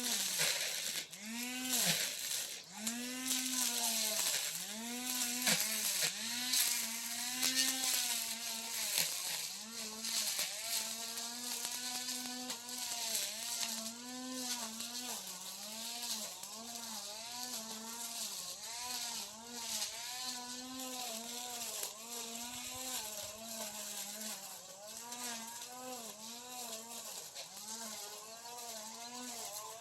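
Two-stroke brush cutter running at high throttle while cutting grass. Its engine pitch dips and recovers about once a second as the blade bites into the grass on each sweep.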